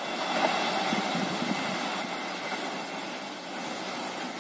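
Passenger train running away along the track: a steady rumble of wheels on rails.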